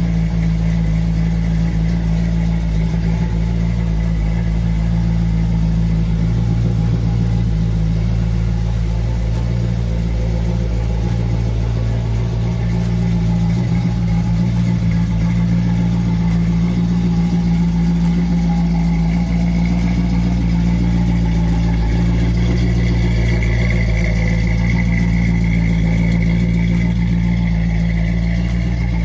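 A 350 V8 engine in a 1969 Chevrolet Camaro idling steadily, with a slight change in its tone about twelve seconds in.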